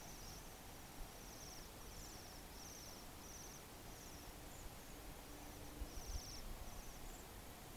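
Small birds calling: short, high, trilled calls repeated about once a second, faint over a steady hiss, with a few low thumps about six seconds in.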